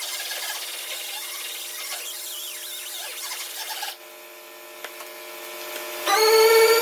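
A handheld grinder working on sheet-metal welds, its pitch shifting under load, for about four seconds; then it cuts off and the sound drops away. Electronic music comes in near the end.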